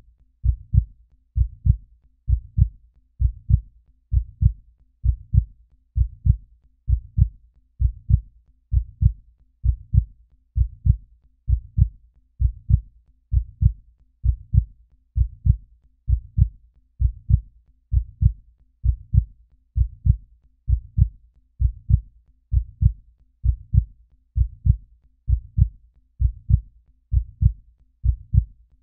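Human heartbeat, a steady lub-dub: deep paired thumps about once a second.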